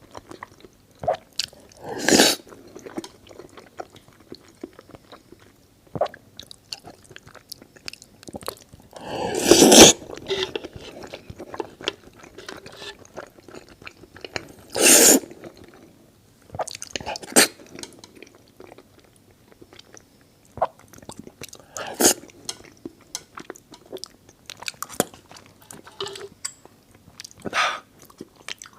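Close-miked eating: chewing and wet mouth clicks, with about five louder noisy bites or slurps spread through, the loudest about a third of the way in.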